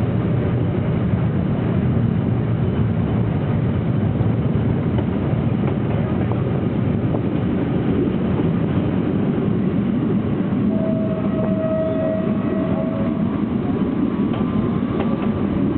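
Lézard Rouge tourist train running along the track, heard from on board as a steady rumble of wheels and carriages. A single brief steady tone sounds about two-thirds of the way through.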